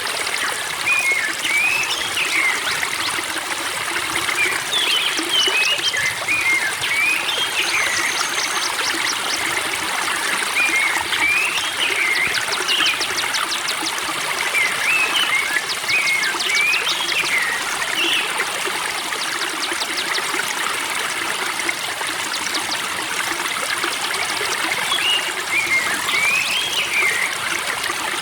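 Spring water trickling and running steadily, with a songbird singing short whistled phrases that rise and fall, repeated every few seconds over it.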